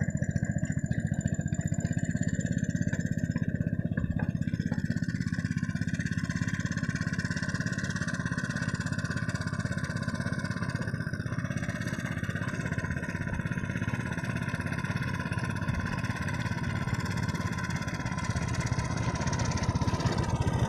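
Two-wheel hand tractor's engine running steadily with a rapid even chug while the tractor works a field.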